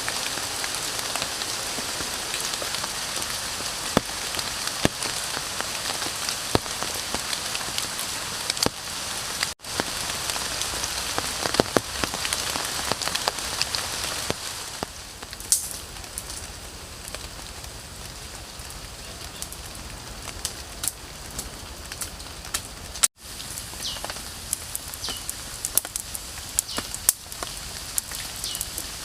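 Steady rain with many sharp drop ticks. It is louder in the first half and quieter from about halfway through, with brief dropouts at two edit points.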